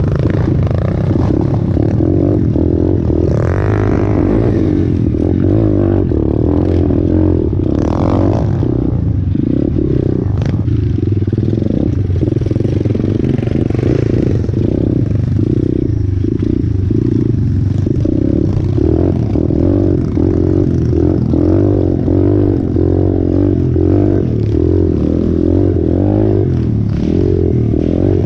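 Orion AGB 37 125cc single-cylinder four-stroke pit bike engine running under load as it is ridden, its revs rising and falling continuously.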